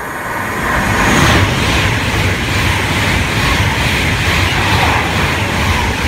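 Class 390 Pendolino electric train passing through the station at speed without stopping. A loud rush of wheels and air builds over about the first second and then holds steady.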